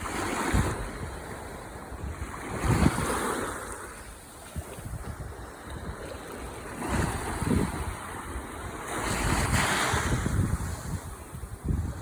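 Ocean waves breaking and washing ashore, the rush swelling and ebbing about four times, with low rumbles of wind buffeting the microphone.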